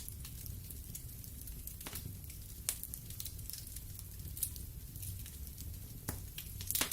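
Wood fire in a fireplace crackling: scattered sharp pops and snaps over a low steady rumble, with a quick cluster of pops near the end.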